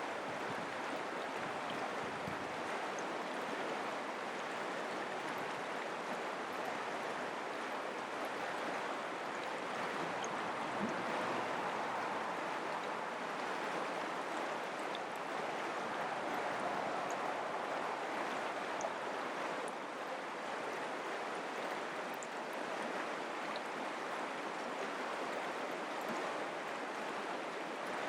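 Mountain creek flowing: a steady rush of running water.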